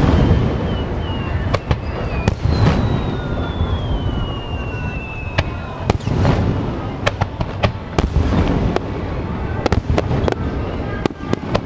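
Aerial fireworks display: deep booms of shells bursting every few seconds, with many sharp crackling pops between them. A long whistle slides steadily down in pitch for about three seconds.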